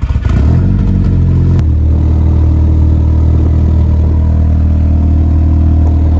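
Audi engine starting through a decatted exhaust (catalytic converter removed). It flares briefly for about a second and a half, then settles into a loud, steady idle.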